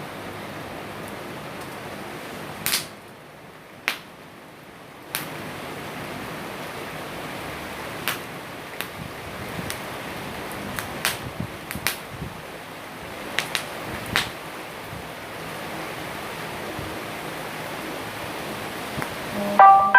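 Wood fire burning in a Picogrill fire stand: a steady rush with irregular sharp pops and cracks, about a dozen of them.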